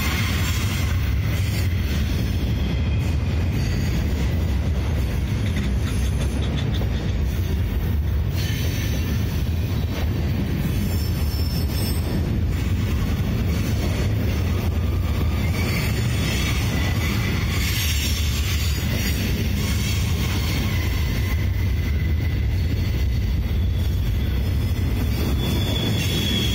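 Freight train of gondola cars rolling past close by: a steady rumble of steel wheels on the rails, with a faint high wheel squeal coming and going.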